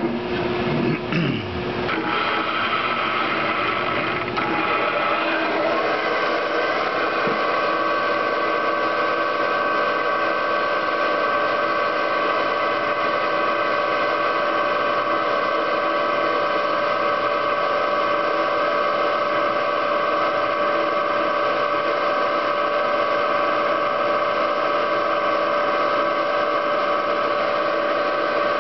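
Spindle motor of a homemade CNC machine running with a steady whine while a hole is drilled, the Z axis fed down by hand with a knob on the ballscrew. The pitch shifts in the first few seconds, then holds steady.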